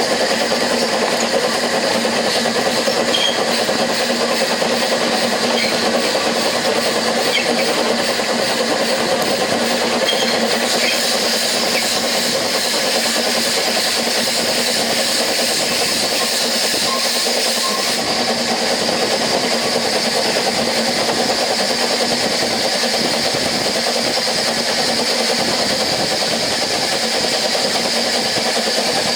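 Steady running noise of a narrow-gauge railway carriage on the move: wheels rolling on the rails with a constant rumble and hiss. The high hiss grows brighter about eleven seconds in.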